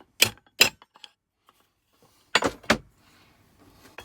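Hammer striking a thin chisel set into a scrap car compressor's cast aluminium body: four sharp metallic blows in two pairs, one pair near the start and another about two and a half seconds in.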